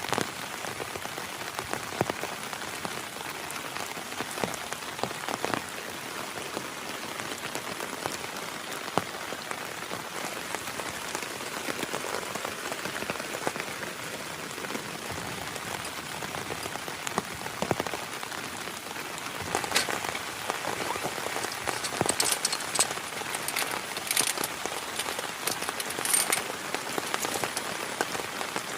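Heavy rain falling steadily, with individual drops ticking sharply on a nearby surface. The drop ticks grow louder and more frequent about two-thirds of the way in.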